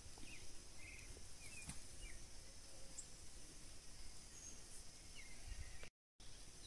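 Quiet rural outdoor ambience with a low steady rumble and scattered short, high bird chirps. The audio cuts out briefly near the end.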